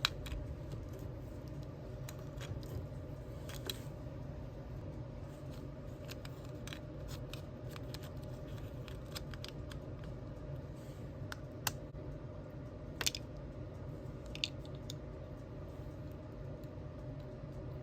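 Scattered small clicks and snips of hands and a small tool working tiny craft pieces, a few sharper clicks about two-thirds of the way in, over a steady low hum.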